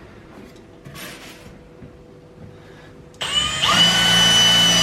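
A power drill starts about three seconds in, winds up and runs at a steady high whine.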